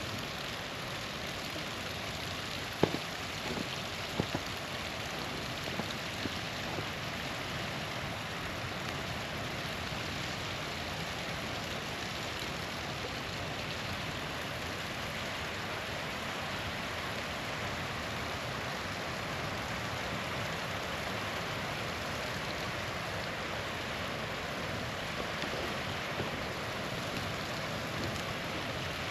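A small waterfall rushing steadily, with a campfire crackling over it: a loud sharp pop about three seconds in, a couple more a second later, and a few fainter snaps later on.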